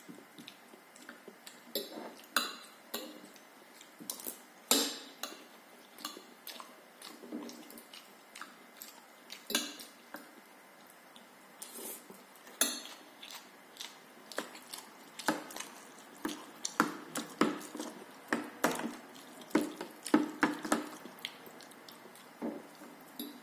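Cutlery clinking and scraping against a plate and bowl during a meal: many short, irregular clinks spread throughout.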